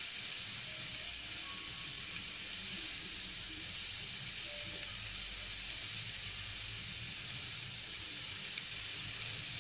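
Boiled baby potatoes sizzling steadily in oil in a kadai on a low flame.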